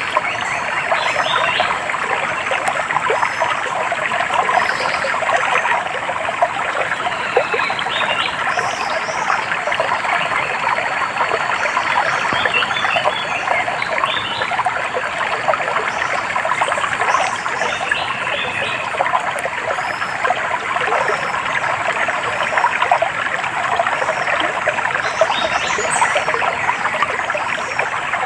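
Running water trickling and babbling steadily, like a small stream, with scattered short bird chirps over it.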